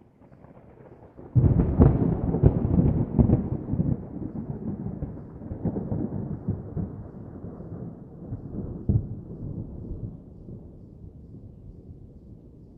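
A thunderclap about a second in, crackling at first and then rumbling away and fading over several seconds, over a faint patter of rain.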